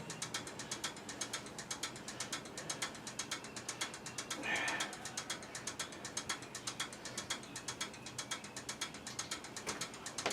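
Hand ratchet wrench clicking rapidly and evenly as it is worked, with a brief softer scrape about halfway through.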